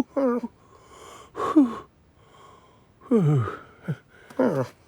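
A cartoon character's wordless voiced sounds: a run of about five short gasps and grunts, most of them falling in pitch.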